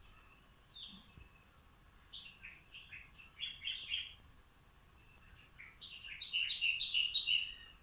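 A bird singing: a single chirp about a second in, then a quick run of high chirping notes, and a longer, louder run of chirps in the second half.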